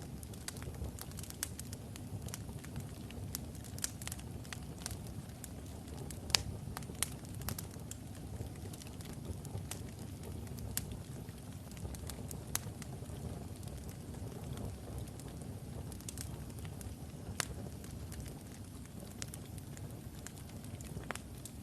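Wood fire burning in a fireplace: a steady low rumble of flames with irregular sharp crackles and pops from the burning logs, one louder pop about six seconds in.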